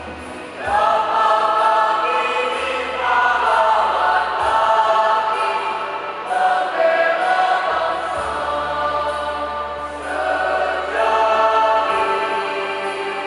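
High school choir singing, with held notes in phrases that swell and ease off.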